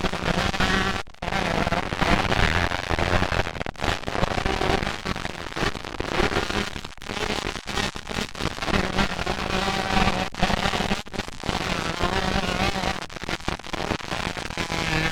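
Several 125cc two-stroke motocross bikes racing, their crackly engines revving up and down over each other, with a few brief dropouts in the sound.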